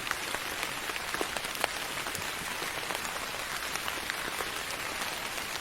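Steady rain falling, an even hiss with many separate drops pattering and ticking.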